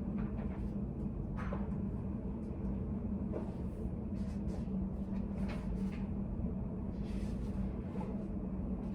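Study cafe room ambience: a steady low hum and rumble, with faint scattered clicks and taps at irregular moments.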